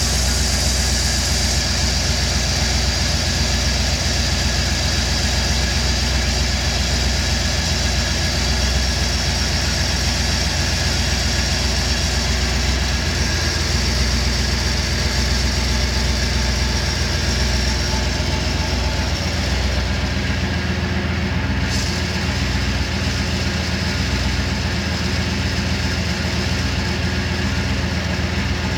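Rebuilt Holden 304 5-litre V8 with a Crane 284 camshaft idling steadily under the open bonnet.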